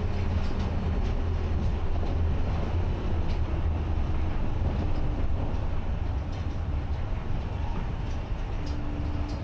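Steady low rumble and hiss of a vehicle in motion, with a few faint steady hum tones.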